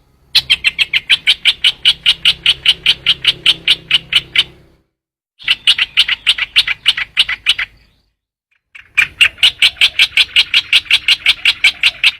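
Call of the bird known in Vietnamese as trao trảo, played as a trapping lure: rapid, evenly spaced sharp notes, about five a second, in three bouts of a few seconds each with short pauses between.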